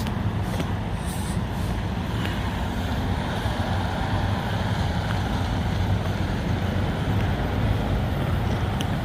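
Semi truck running steadily under way, a constant low engine drone with road noise.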